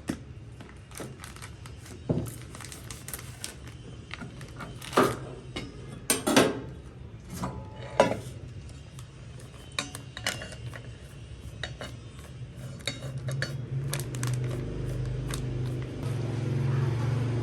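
Kitchen dishes and utensils clinking and knocking, with a few sharper knocks about five to eight seconds in. A low steady hum comes in near the end.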